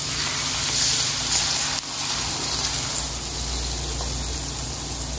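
Beaten egg poured into hot oil in a wok of frying beef, sizzling. The sizzle is brightest for the first second and a half or so, dips briefly, then settles to a steady hiss.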